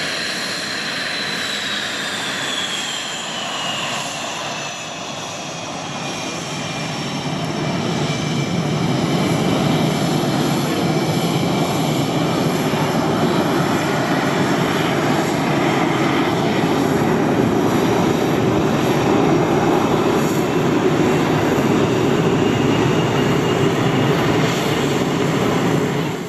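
CF-18B Hornet's twin General Electric F404 jet engines. A high whine falls in pitch over the first few seconds, then a louder jet roar builds from about eight seconds in and holds steady until it cuts off suddenly at the end.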